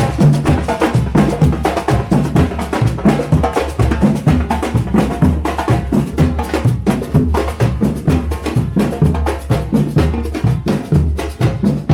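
Drums and percussion playing continuously in a fast, steady rhythm, with a low bass beat under the strokes.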